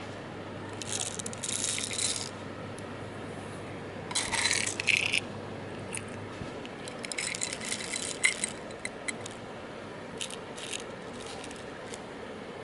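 Bursts of rattling and clinking from small hard objects being handled, four short clusters of quick clicks over a steady faint hiss.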